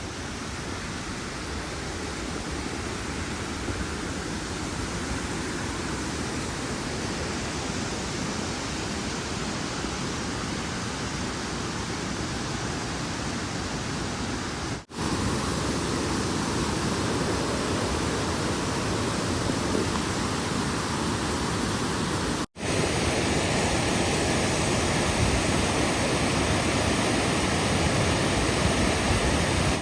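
Steady rushing noise, cut off abruptly twice, about halfway through and again about three-quarters through, and resuming a little louder each time.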